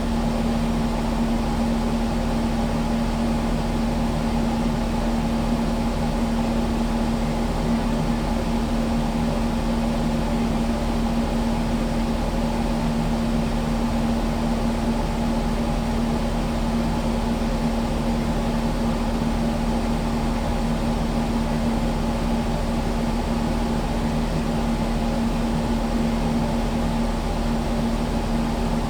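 Kubota skid steer's diesel engine running at a steady speed, a constant drone with a strong even hum and no change in pitch or level.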